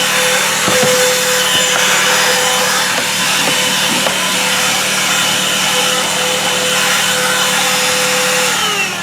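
Thisworx 12-volt handheld car vacuum running with a steady motor whine and airflow hiss as it sucks up debris, with a few short ticks. Near the end the motor is switched off and its pitch falls as it winds down.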